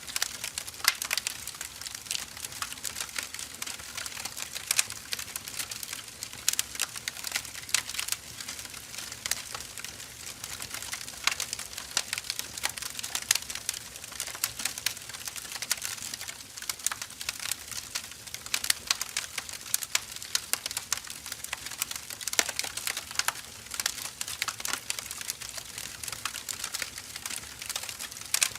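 Firewood burning, crackling steadily with a dense, irregular run of sharp pops and snaps.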